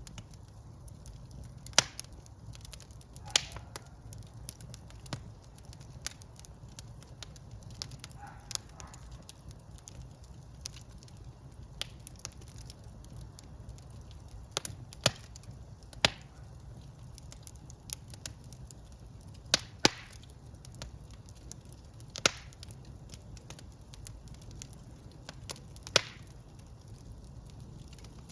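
Wood fire burning in a fireplace: sharp crackles and pops at irregular moments, a dozen or so loud ones among many small ticks, over a steady low rumble of the flames.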